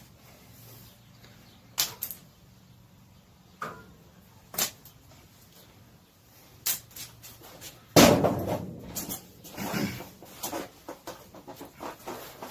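Metal engine parts and hand tools being handled during intake-manifold installation: scattered clanks and clicks, then one loud clank about eight seconds in followed by a couple of seconds of rattling and scraping.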